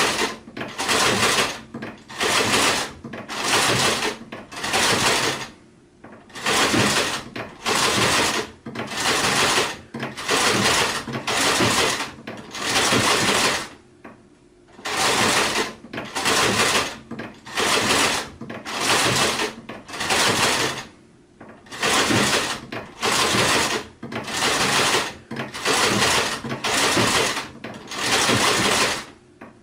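Sewing machine stitching in short runs of under a second each, starting and stopping about once a second, with a few slightly longer pauses.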